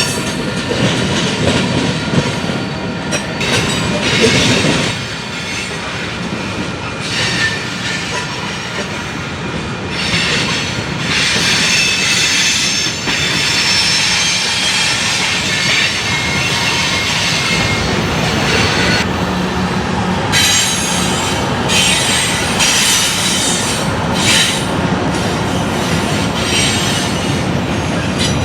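A train rolling past at close range, its steel wheels running over the rails with a steady rumble and squealing in thin high tones that come and go.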